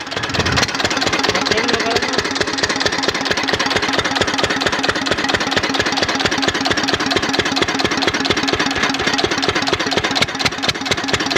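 An engine idling steadily with a fast, even beat of firing strokes.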